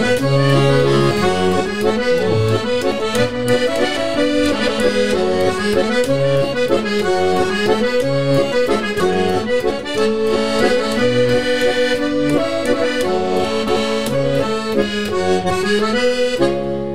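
Garmon, a Russian button accordion, playing the melody alone with no singing, a tune line over held bass notes and chords.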